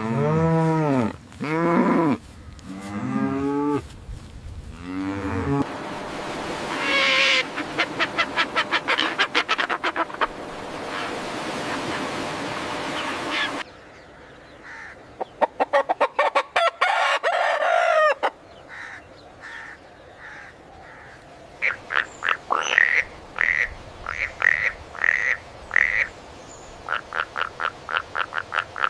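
A run of different animal calls one after another. It opens with several long pitched calls that rise and fall, then turns into rapid pulsed calls, some of them short and repeated, with a quieter stretch in the middle.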